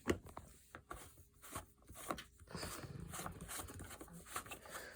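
Handling noises: scattered light clicks, knocks and rustling as vacuum parts and packaging are moved about by hand.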